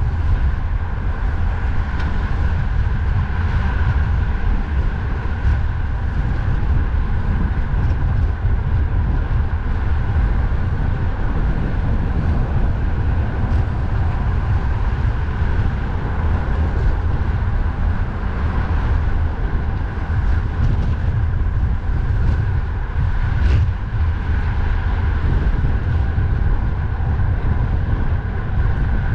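Wind rumbling steadily on the microphone of a cyclist riding in strong wind, with a steady road hum above it.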